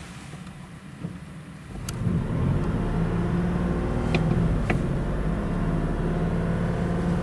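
Toyota Aqua hybrid's 1.5-litre inline-four engine starting up about two seconds in, then running at a steady speed, with a few light clicks.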